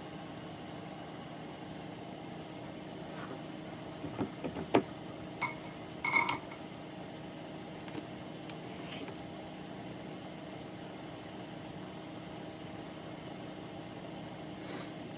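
Steady electrical hum under a handful of small clicks and taps from small parts and tools being handled. The taps bunch up around the middle, two of them with a short metallic ring.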